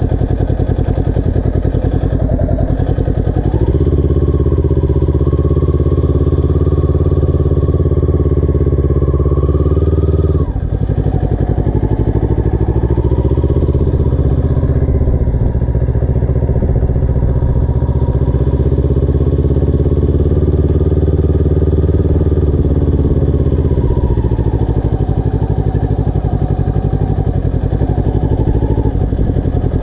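Motorcycle engine riding at low speed. It revs up a few seconds in and holds steady, drops off sharply about ten seconds in, picks up and holds again, then eases back to a lower, idle-like note for the last few seconds.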